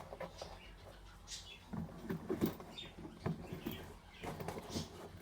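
Irregular small squeaks, creaks and scrapes, likely the rubber sole and upper of a boat shoe being pried and pulled apart, over a steady low hum.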